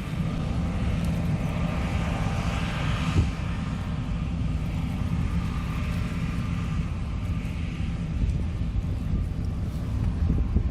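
John Deere combine harvesters running steadily, a low engine drone, with wind rumbling on the microphone. A single brief thump about three seconds in.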